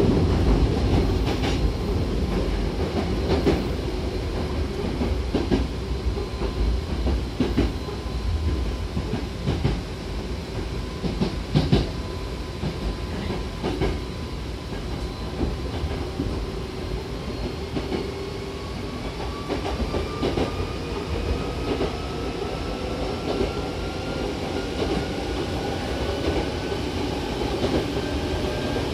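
Hankyu 7000-series electric train running, heard from inside the car: a steady rumble of wheels on rail with scattered rail-joint clicks. From about two thirds of the way in, a thin motor whine rises in pitch as the train picks up speed.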